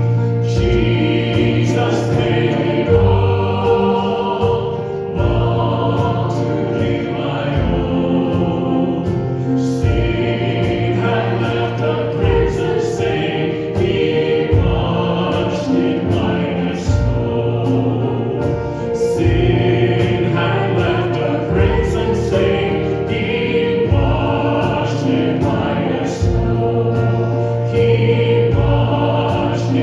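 Worship music: a group of voices singing a hymn together over instrumental accompaniment with a steady beat.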